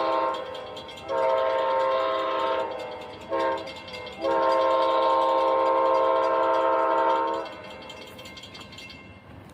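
Amtrak passenger locomotive horn blowing the grade-crossing signal: the tail of one long blast, then a long blast, a short one and a final long blast of several steady tones together. After the last blast the train's rumble goes on more quietly.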